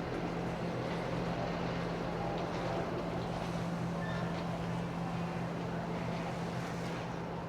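A large engine running steadily, a low even hum of a few held tones under a wash of noise.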